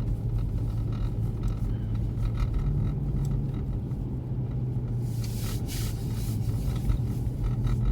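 Moving car heard from inside the cabin: a steady low hum of engine and tyres on the road, with a louder rush of hiss lasting about a second, about five seconds in.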